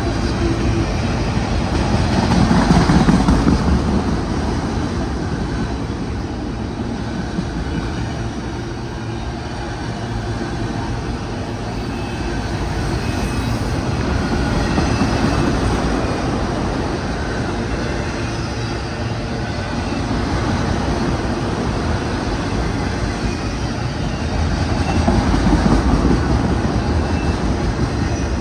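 CN autorack freight train rolling past, a steady noise of steel wheels on the rails, swelling in loudness about three seconds in and again near the end.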